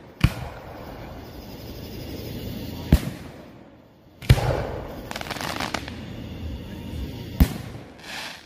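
Aerial fireworks bursting: four sharp booms a few seconds apart, the third followed by about two seconds of crackling.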